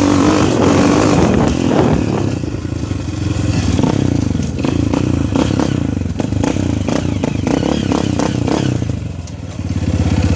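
Motocross motorcycle engine running under changing throttle while ridden, with clattering knocks from the bike over rough ground. Near the end the revs drop and the engine settles into a steady low run.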